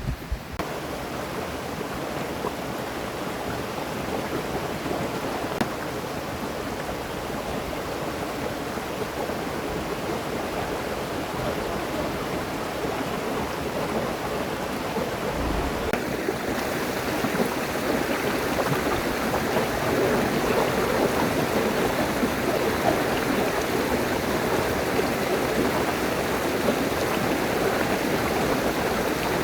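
River water rushing steadily; about halfway through it suddenly becomes louder and brighter.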